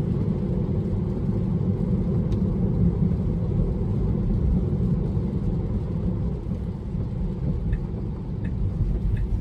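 Steady low road and tyre rumble inside the cabin of a Tesla electric car as it drives, with no engine note.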